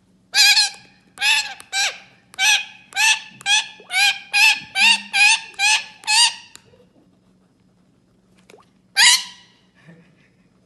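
Parrot calling in a quick run of about a dozen loud squawks, about two a second, then a pause and one more squawk near the end.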